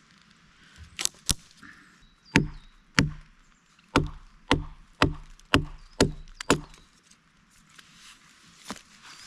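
Wood being struck hard over and over, eight chopping or knocking blows about two a second, each with a dull thud, after two lighter taps near the start.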